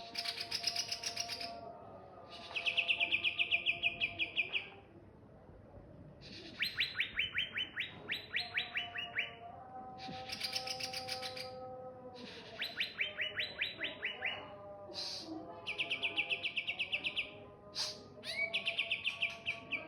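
Green leafbird (cucak ijo) singing continuously in long, loud phrases. Each phrase is a fast trill of repeated notes, about nine or ten a second, alternating with higher whistled phrases, with short pauses between them.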